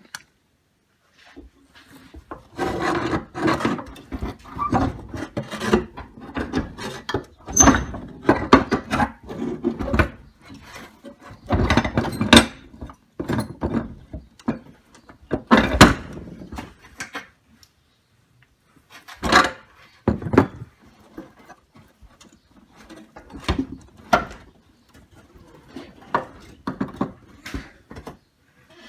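Hand work on a window air conditioner's compressor mounting as it is reseated on new rubber mounts: irregular scraping and rubbing with knocks, in bursts with short pauses.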